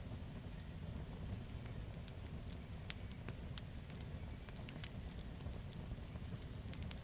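Campfire burning: irregular sharp crackles and pops of wood over a steady low rumble.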